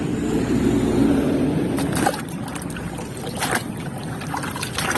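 Water sloshing and trickling as a muddy plastic toy car is washed by hand, with a few sharp knocks of plastic against plastic.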